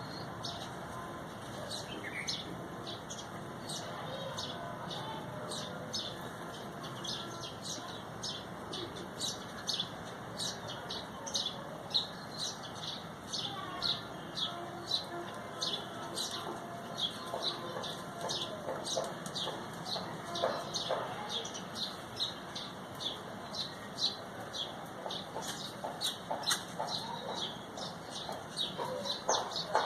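Many small birds chirping together: a dense run of short, high chirps, busier after the first few seconds, with a few lower calls mixed in.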